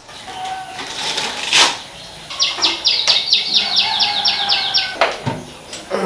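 A bird calling a rapid series of about a dozen high, falling notes, roughly four a second, for a couple of seconds in the middle, with a single click shortly before.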